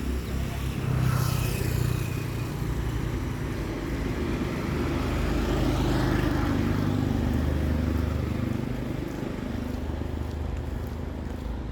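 Street traffic: the low engine rumble of motor vehicles passing close by, swelling as one goes past around the middle.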